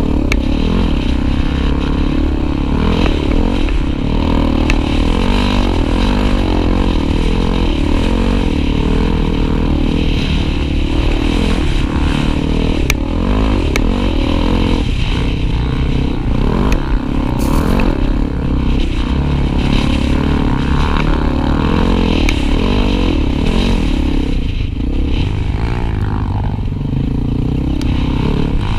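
Honda XR250 Tornado trail motorcycle engines running under way, the engine note rising and falling with the throttle over a strong low rumble.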